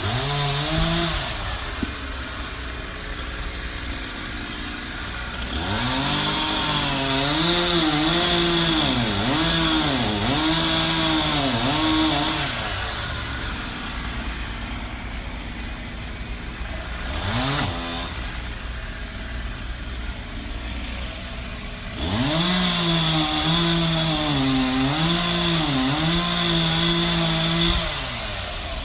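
Chainsaw idling, then run up to full throttle for two cuts of about six seconds each, its pitch dipping and recovering repeatedly as it bogs under load in the wood. A short throttle blip comes between the cuts.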